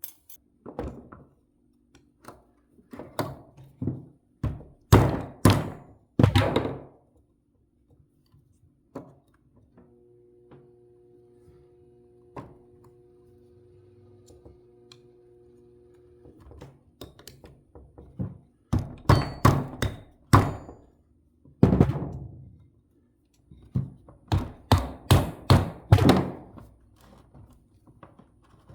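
Heavy metal knocks in quick runs of several blows, hammer strikes on the rear wheel hub working the old axle seal out, with a pause of several seconds between runs.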